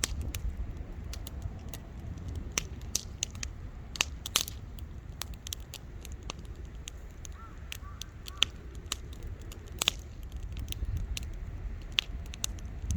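Wood campfire crackling: irregular sharp pops and snaps from the burning wood, a few louder ones about four and ten seconds in, over a steady low rumble.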